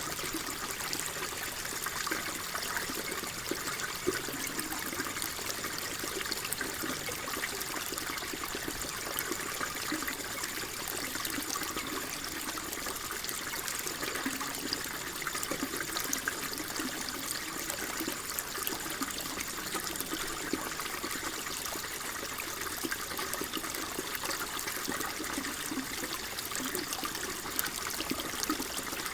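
Water flowing and trickling steadily, a continuous babble with many small splashes.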